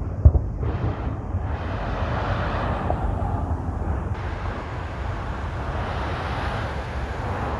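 A firework shell bursting with a sharp boom about a third of a second in, then a steady rush of passing traffic for the rest of the time.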